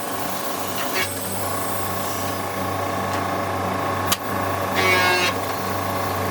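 Woodworking machinery running with a steady motor hum, with short rasping bursts of cutting about a second in and around five seconds, and a sharp click just after four seconds.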